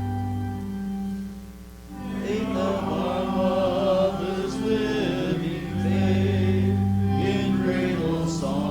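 Church organ holding a chord, then several voices come in singing a hymn about two seconds in, with the organ accompanying.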